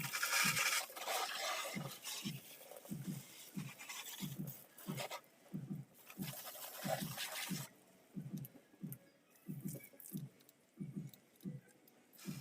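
A brush scrubbing a motorbike back and forth in a steady rhythm of about two strokes a second, with louder hissing stretches near the start and about halfway through.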